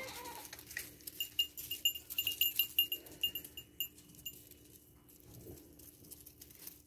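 A bird chirping: a quick run of short, high notes all on one pitch, starting about a second in and lasting about three seconds, over a steady low hum.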